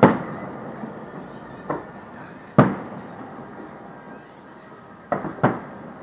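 Fireworks shells bursting: a loud bang at the start, a softer one, another loud bang about two and a half seconds in, then a quick pair near the end, each trailing off in an echoing rumble.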